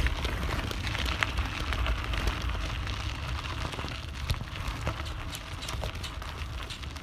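Bicycle rolling over a bumpy dirt trail: scattered clicks and knocks from the tyres and the phone holder rattling, over a steady rumble of wind on the microphone.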